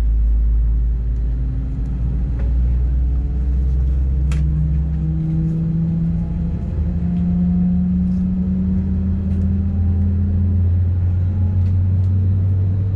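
Airbus A320 cabin drone on the ground: a steady low rumble with engine hum tones that climb slowly in pitch. There is a single sharp click about four seconds in.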